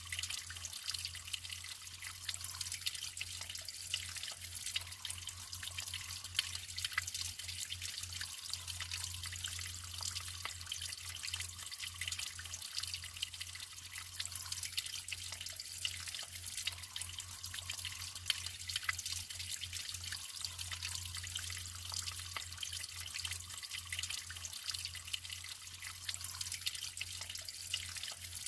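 Natural running water trickling steadily, a constant splashing hiss flecked with many small drips and splashes.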